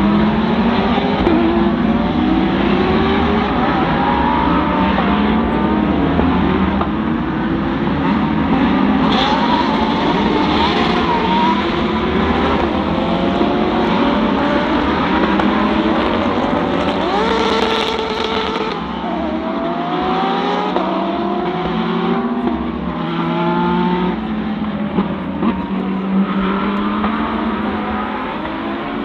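A field of DTM GT3 race cars with 6-, 8- and 10-cylinder engines running together, many overlapping engine notes repeatedly rising in pitch and dropping back as the cars rev and pull away.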